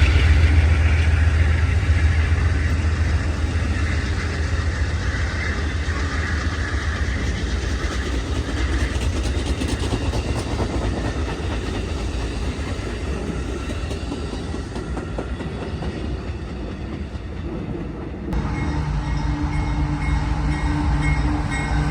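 A train rolling past: a locomotive's low engine rumble fades over the first several seconds, leaving the steady rolling noise of the rail cars. About 18 seconds in, the sound changes abruptly and several steady tones come in over it.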